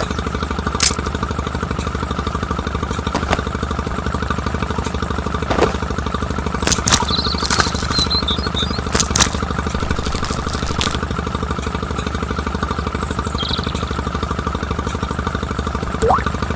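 A small motor running steadily with a fast, even pulse, with scattered clicks and knocks over it, several of them between about six and eleven seconds in.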